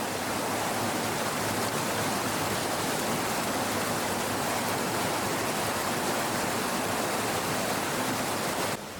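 Stream water rushing steadily, cut off suddenly near the end.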